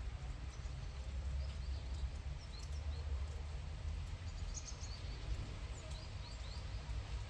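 Birds chirping a few times: short, high, quick rising notes, over a steady low rumble of outdoor background.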